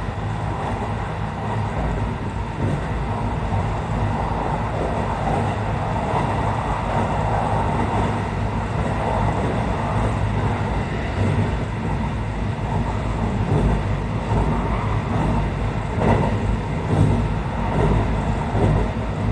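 Steady running noise of a Kintetsu 80000 series 'Hinotori' electric train at high speed, heard from inside the passenger cabin: an even rumble with a low hum.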